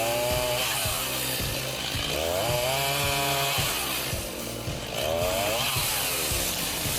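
Chainsaw engine revving up and dropping back in pitch three times, as in cutting.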